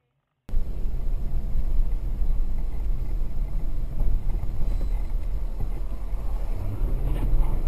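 Steady low rumble of a moving car's road and wind noise picked up by a dashcam, starting abruptly about half a second in.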